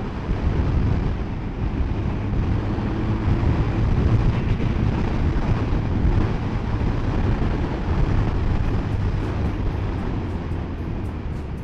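Triumph Sprint 1050 GT SE motorcycle on the move: steady wind rush over the microphone, with the low drone of its three-cylinder engine underneath.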